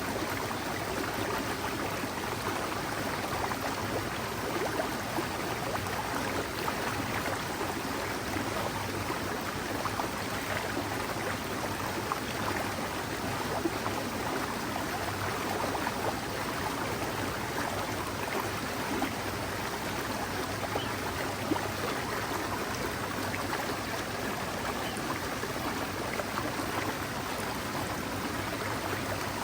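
Mountain stream flowing steadily, an even babble of running water.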